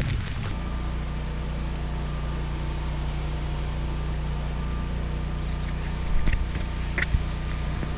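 An engine running steadily at a constant pitch, with a couple of brief knocks near the end.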